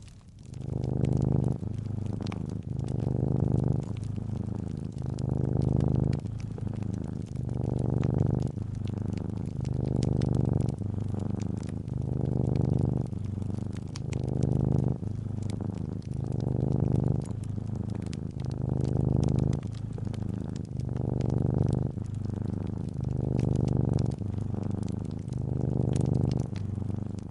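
Domestic cat purring close up: a low buzzing purr that starts about a second in and swells and eases with each breath, about every second and a half. Faint fireplace crackles and pops run underneath.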